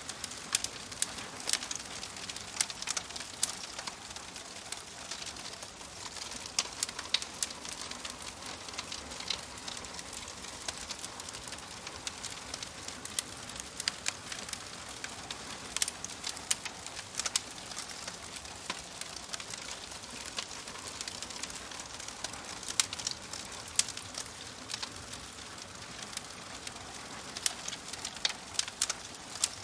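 Wood fire crackling in a fireplace: irregular sharp pops and snaps, sometimes in quick clusters, over a steady soft hiss.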